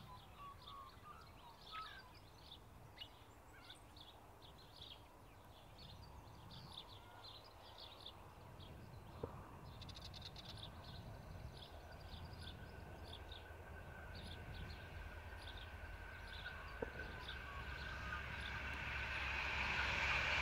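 Small birds chirping over a low diesel rumble that grows steadily louder through the second half as a freight train hauled by Pacific National NR class diesel locomotives approaches.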